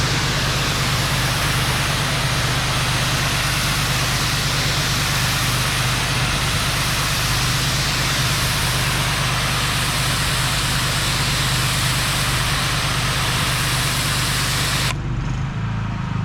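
Pressure washer engine running steadily under the loud hiss of the wand's high-pressure spray hitting the surface being cleaned. About fifteen seconds in the spray cuts off suddenly as the trigger is released, and the engine keeps running.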